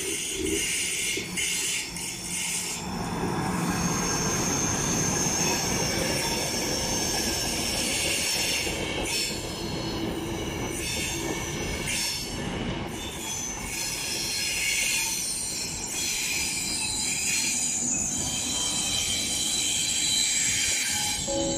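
Passenger train of PKP Intercity coaches hauled by an electric locomotive, passing on a curve: the wheels squeal against the rails in high, steady tones over the rumble of the running train.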